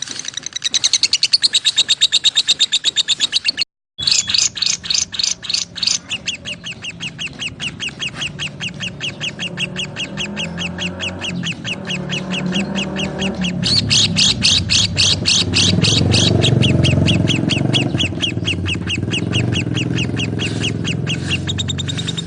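Lovebirds chirping in a fast, steady run of short, high chirps, several a second, cut off suddenly for a moment just before four seconds in. From about ten seconds in, a lower-pitched sound builds up underneath the chirping.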